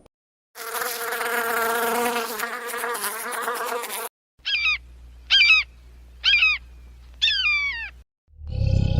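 A flying insect buzzing steadily for about three and a half seconds, then four short, high, wavering calls, about one a second.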